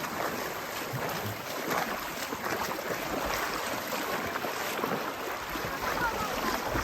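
Steady rush of shallow creek water running over low rapids.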